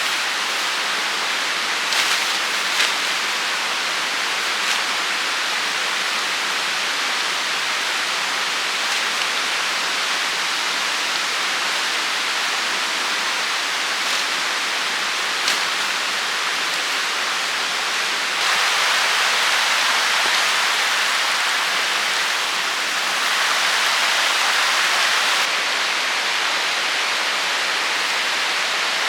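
Steady rushing noise of water, which grows louder twice for a few seconds in the second half, with a few faint isolated ticks.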